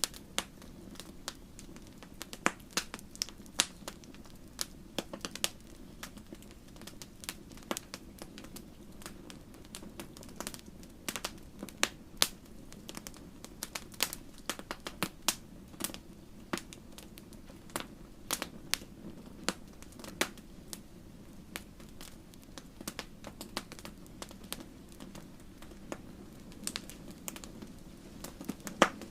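Wood fire crackling in a fireplace: irregular sharp pops and snaps, several a second at times, over a soft steady hiss of burning.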